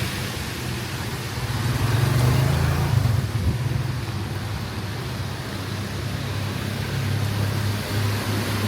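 Street traffic: a motor vehicle's engine running close by with a low, steady hum, a little louder about two seconds in, over a steady hiss.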